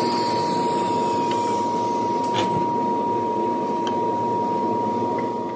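A shop machine running steadily, with a constant high whine and a few light clicks.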